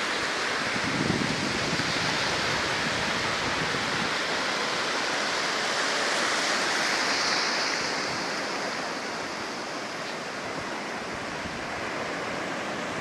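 Ocean surf on a beach: a steady rush of breaking and washing waves that swells for the first several seconds and eases off about eight seconds in.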